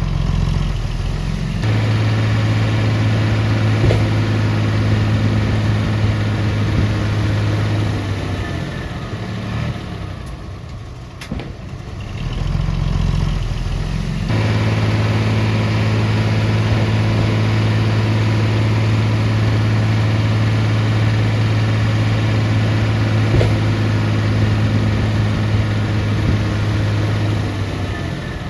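Heavy construction machine's diesel engine running with a steady low drone. It eases off for several seconds around the middle, then comes back up to the same steady drone.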